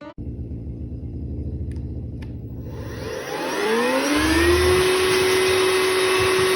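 Vacuum cleaner switched on: a low pulsing rumble, then its motor whine rises from about three seconds in and holds steady. Two faint clicks sound around two seconds in.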